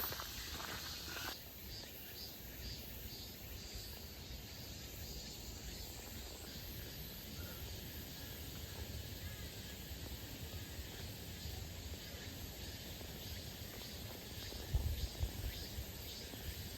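Footsteps on a mountain trail for about the first second, then steady outdoor ambience with a low rumble of wind on the microphone, and a single thump near the end.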